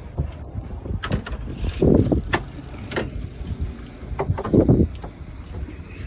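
Wind buffeting the microphone over a low rumble of water against a small fishing boat, with two louder dull swells about two and four and a half seconds in and a few scattered clicks.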